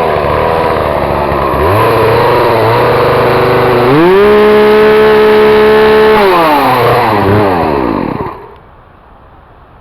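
Chainsaw running, its pitch dipping and rising as it works, then revved to a steady high pitch for about two seconds before it winds down and cuts off about eight seconds in.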